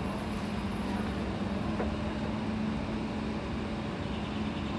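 Steady hum of an SMRT C151 train standing at a platform with its doors open, a low even drone with a fainter higher tone over it and no change in speed.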